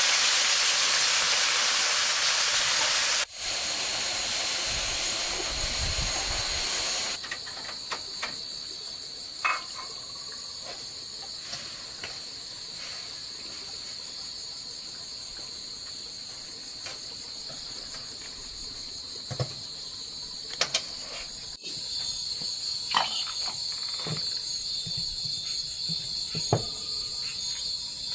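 Food sizzling loudly in a hot pan for the first several seconds, then a steady, high chorus of insects trilling, with scattered small clicks and knocks.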